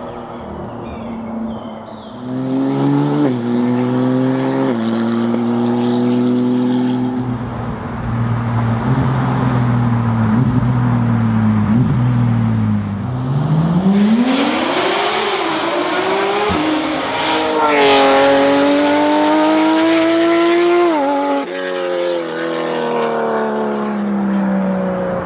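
Porsche 991 911 GT3 RS naturally aspirated flat-six through Inconel straight pipes, very loud. It runs at a steady pitch, then revs up hard through a gear change to a peak about two-thirds of the way in, and near the end drops back with quick throttle blips on downshifts.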